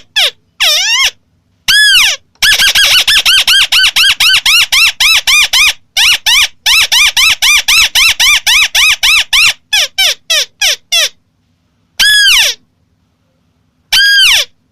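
White-browed crake calling: a fast chattering run of short notes that each rise and fall in pitch, about five a second, slowing before it breaks off. Single longer arched notes come before and after the run.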